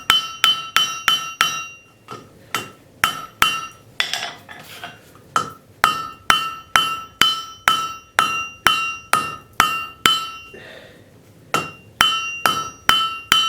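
Blacksmith's hammer striking a hot railroad spike on an anvil, in runs of quick blows about two to three a second, each blow leaving a bright anvil ring. Two short pauses break the runs, near 2 seconds in and just after 10 seconds in.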